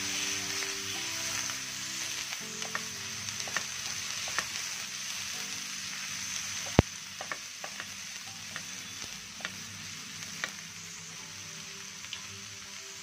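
Sliced onions, tomato, garlic and green chillies sizzling in hot oil in a non-stick pan as a wooden spatula stirs them, with scattered light clicks of the spatula on the pan and one sharp knock about seven seconds in.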